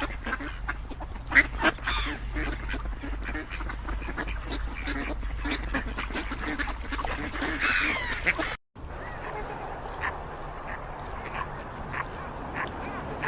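A flock of ducks quacking, many short calls overlapping. Near two-thirds of the way through the sound cuts out for a moment and switches to a quieter recording with fewer, sparser calls.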